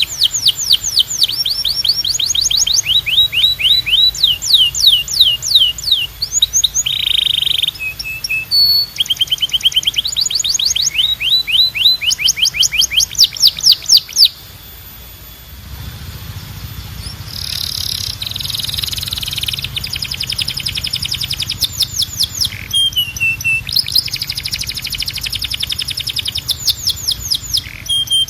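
Domestic canary singing: fast trills of many repeated sweeping notes, switching from one roll to the next every second or two, with a short pause about halfway through.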